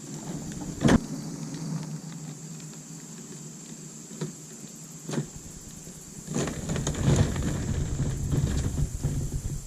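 Hard knocks, then a rumbling scrape: a small homemade boat hull being handled and slid over a pickup truck bed. A sharp knock comes about a second in, another about five seconds in, and the scraping rumble runs from about six seconds until near the end.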